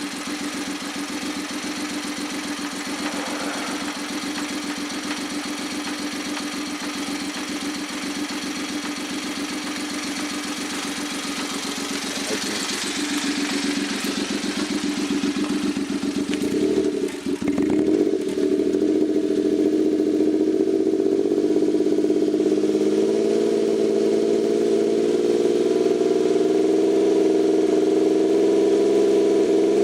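Suzuki K6A three-cylinder engine running bare, without its turbocharger. It idles steadily, then about halfway through it stumbles briefly and the revs come up, running louder at a higher speed that creeps slowly upward.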